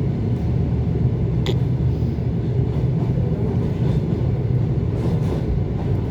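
ET2 electric multiple unit running on the rails: a steady low rumble of wheels and motors, with one brief high click about one and a half seconds in.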